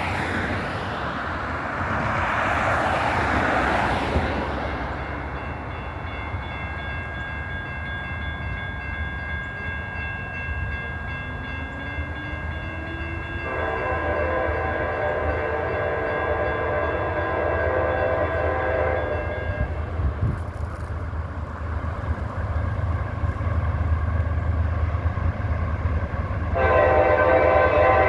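Diesel freight locomotive horn sounding for a road grade crossing: one long blast starting about halfway through and another starting near the end, which is the loudest part. A crossing bell rings steadily through the first part, over the low rumble of the approaching train.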